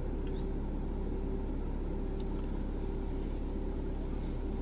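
Steady drone of a running vehicle, with a constant low rumble and an even hum that does not change.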